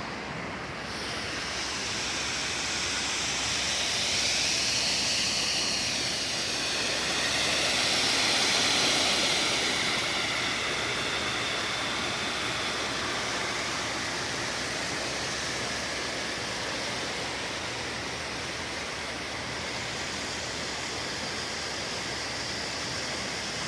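Waterfall rushing: a steady hiss of falling water that swells a few seconds in.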